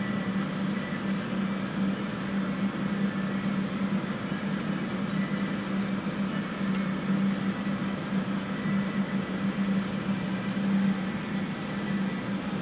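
Several electric fans running together: a loud, steady whirring with a constant low hum.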